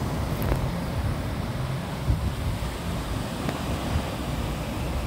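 Surf breaking and washing up a sandy beach, with wind buffeting the microphone in a steady low rumble.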